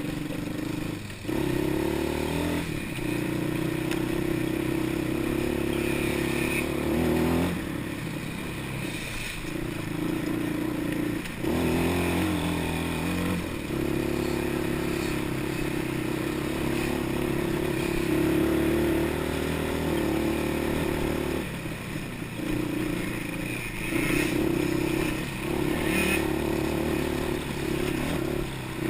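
Off-road vehicle engine running under throttle as it is ridden. The throttle drops off briefly several times and the engine pulls again each time.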